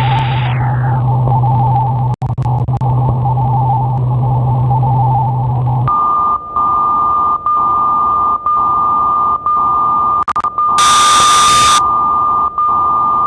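Shortwave radio static heard through a web-controlled SDR receiver: a steady hiss with a low hum, its treble cut off about half a second in. About six seconds in, a steady high beep tone from a carrier comes in, broken by short gaps about once a second, with a loud, brief burst of hiss near the end.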